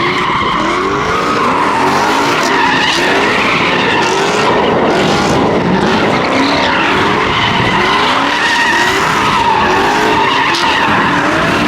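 Car tyres squealing in a long, continuous skid over engine noise, the screech wavering up and down in pitch over and over, as at a car-meet burnout or donut.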